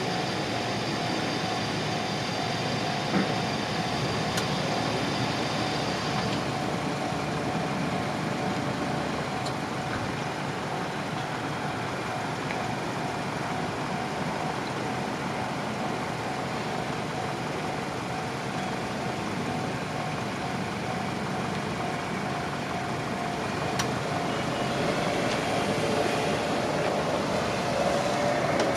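Electric passenger train running past on the line, a steady rumble of wheels on rail with steady tones over it; the highest tone cuts off about six seconds in and the noise grows a little louder near the end.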